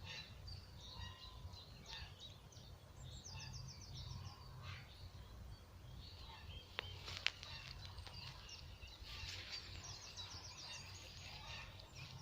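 Small birds chirping, with a couple of rapid high trills, over a low steady rumble; a sharp click about seven seconds in.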